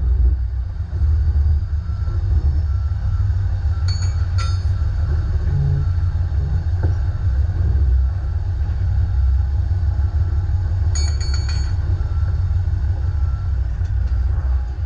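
Dump truck engine running with a steady low rumble. Short high-pitched squeaks come twice about four seconds in and in a quick cluster near eleven seconds.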